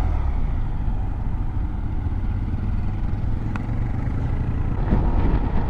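Motorcycle riding at road speed, its engine and the rush of wind making a steady low rumble.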